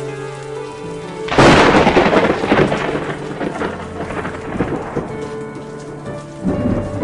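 Steady rain under soft sustained music. About a second in, a loud thunderclap breaks and rolls on for several seconds, with a smaller rumble of thunder near the end.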